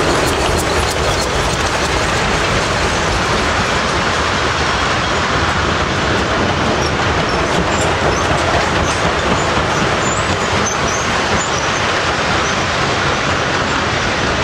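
A narrow-gauge coal train's loaded wagons roll steadily past, their wheels clattering over the track.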